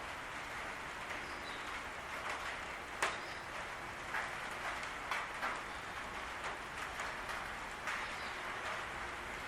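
Steady rain falling on a patio roof, with scattered heavier drops landing as irregular sharp ticks, the sharpest about three seconds in.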